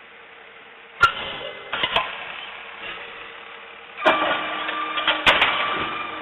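Garbage truck working, its engine running under two sudden loud stretches of mechanical clatter and sharp knocks, about a second in and again about four seconds in.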